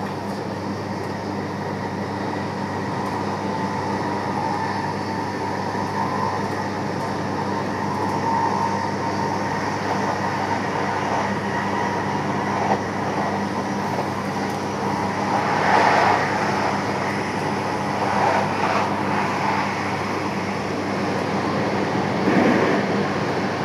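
Inside a moving electric passenger train, the steady running noise of the carriage at speed: a constant low hum with a faint steady whine over it. A few louder swells or rattles come in the last third.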